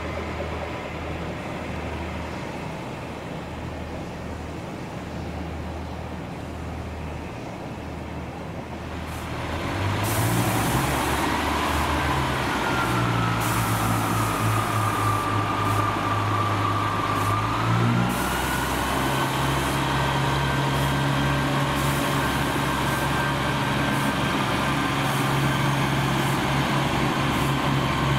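A train running at the station. A low, steady hum grows louder about ten seconds in into a low drone with a whining tone that dips and then levels off. The drone shifts pitch around eighteen seconds in and carries on steadily.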